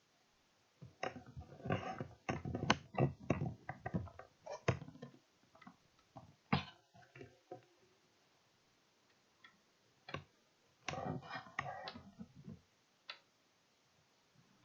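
Rapid clicking and knocking in several clusters: a long run in the first few seconds, a few more about halfway through, and another run later on.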